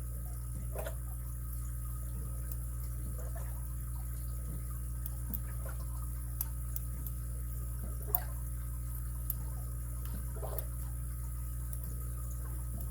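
Faint, scattered clicks of a lock pick and tension wrench working the pin tumblers of a padlock, with a sharper click about eight seconds in, over a steady low hum.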